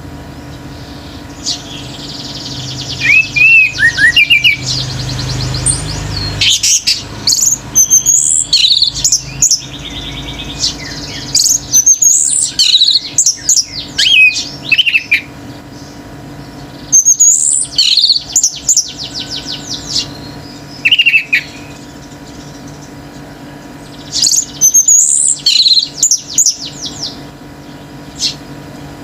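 Orange-headed thrush singing loud, rapid bursts of varied whistled notes and trills, phrase after phrase with short pauses between them, over a steady low hum.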